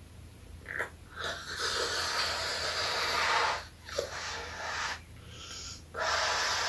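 A person blowing hard into a rubber balloon to inflate it: three long breathy blows, the first the longest, with short pauses for breath between them.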